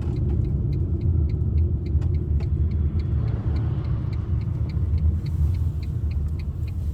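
Ram ProMaster campervan driving: a steady low rumble of engine and road noise. A light, regular ticking, about three to four times a second, runs over it.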